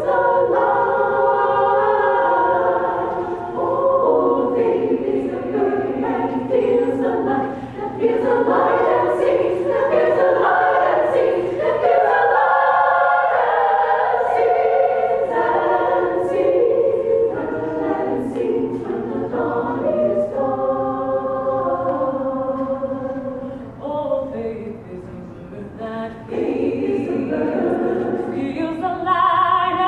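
Mixed choir singing a choral piece in harmony, sustained chords that soften briefly about three-quarters of the way through before swelling again.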